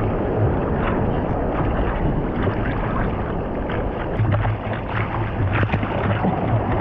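Ocean surf washing and rushing in the waves, with wind buffeting the microphone.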